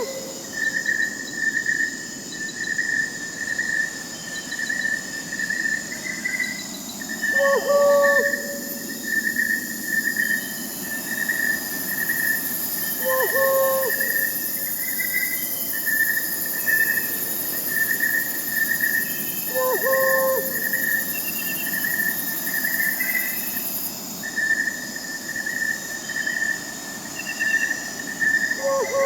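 Crickets chirping steadily, with an owl hooting about every six seconds: five short hoots in all.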